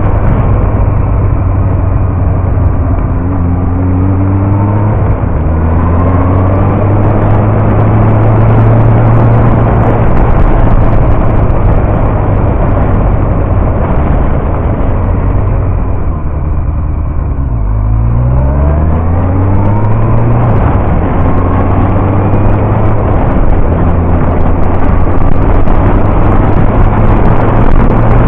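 Yamaha R1 inline-four engine running under way, its pitch climbing with the throttle several times. About two-thirds through, the note drops as the bike slows, then rises steeply again as it accelerates away.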